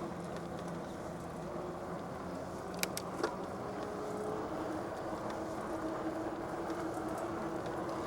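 Riding noise from an electric bike heard through a clip-on mic with no windscreen: steady wind rumble and rolling noise with a faint steady hum. Two sharp clicks come close together about three seconds in.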